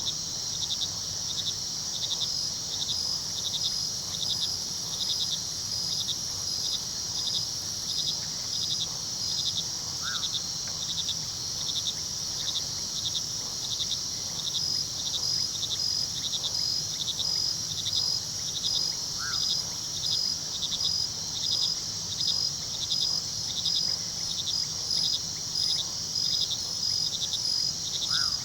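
Night chorus of crickets: a steady high trill with rows of rhythmic chirps over it, above a low rush of river water. Three short single calls sound about nine seconds apart, the last near the end.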